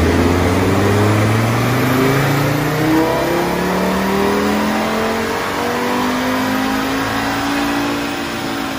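Audi RS3's turbocharged 2.5-litre five-cylinder engine under full load on a chassis dynamometer during a power run, its pitch climbing steadily and unbroken as the revs build in one gear.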